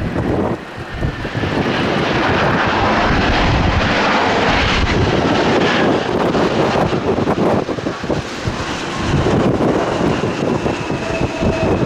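Jet airliner's engines, a loud rushing roar that builds over the first two seconds and holds, with a steady whine coming in near the end.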